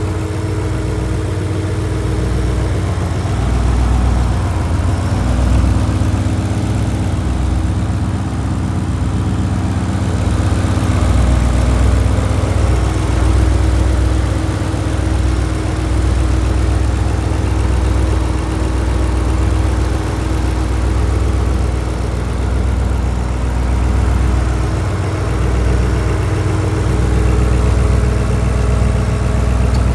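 Turbocharged 2006 Ford Mustang Saleen S281's V8 engine idling steadily.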